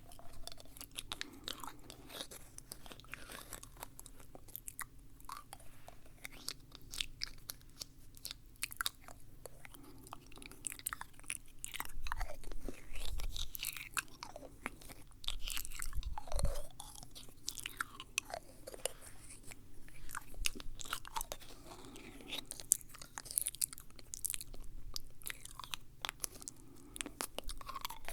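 Close-up wet mouth sounds for ASMR: irregular quick clicks, smacks and nibbling sounds of lips and tongue, with a few louder stretches.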